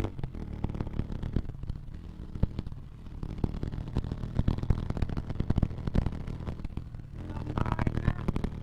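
Motorcycle engine running steadily at low revs, with many short clicks and knocks over it.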